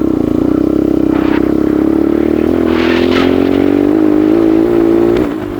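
Motorcycle engine running under way, its pitch climbing gently, then dropping briefly near the end before picking up again.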